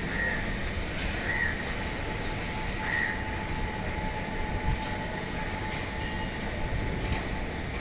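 Steady industrial machinery running: a low rumble with faint steady whines above it, and three short squeaks in the first three seconds.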